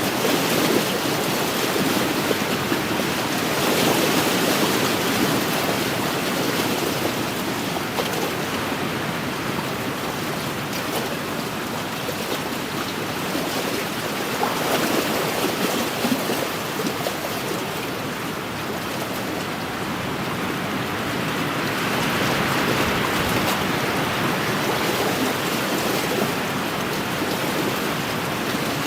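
Wind-driven waves washing against an inland lakeshore: a steady rushing wash that slowly rises and falls in strength.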